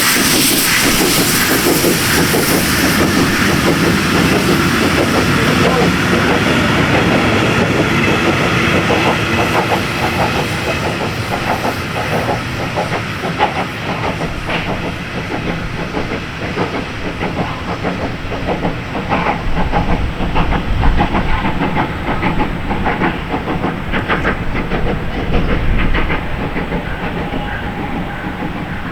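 Pt47 steam locomotive hauling a train, with loud steam hissing at first, then a long run of wheels clicking over the rail joints as the carriages roll past, growing fainter near the end.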